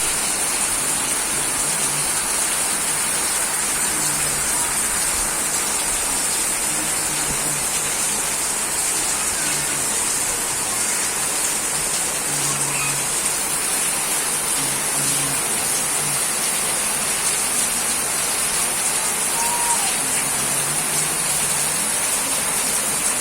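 Steady rain falling: an even, continuous hiss that holds at the same level throughout.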